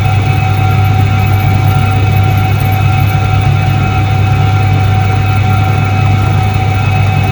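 1978 Soviet Iset-3 washing machine running, a steady, even machine hum with a strong low drone and a fainter higher tone above it.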